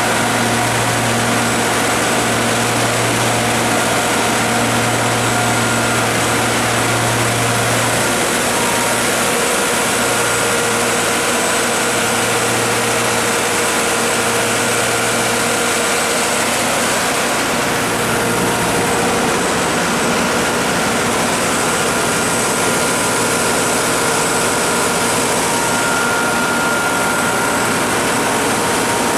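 Caterpillar 3208 V8 diesel engine of a 150 kW standby generator set running steadily, a loud, even engine noise with a constant hum.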